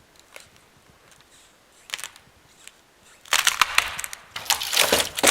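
Partly sawn tree trunk cracking and splintering as it is pushed over by hand at its wedge cut. A few single cracks first, then from a little past three seconds in two dense runs of cracking and snapping.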